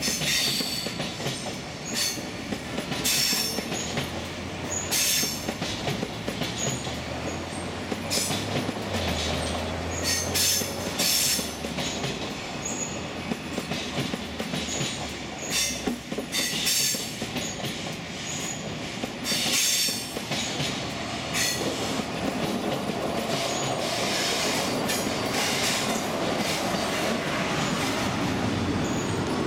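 SBB passenger train, intercity coaches, rolling slowly past on the station approach, its wheels clacking repeatedly over points and rail joints, with short high squeals from the wheels. Over the last several seconds the clacking gives way to a steadier rolling rumble.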